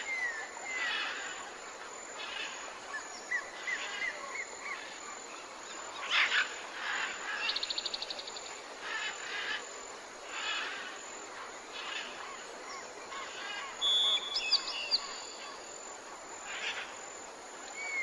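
Several wild birds calling over a faint steady hiss: raspy calls every second or two, short falling chirps, and a quick even trill about halfway through, followed by a brief level whistle and a few sharp high notes.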